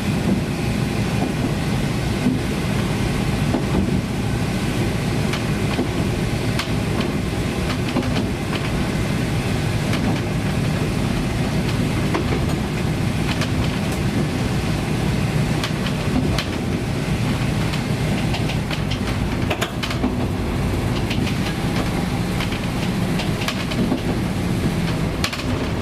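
Japanese KiHa 20-series diesel railcar running along the line, heard from inside at the front. Its DMH17 diesel engine drones steadily, with clicks and knocks of the wheels over the rail joints.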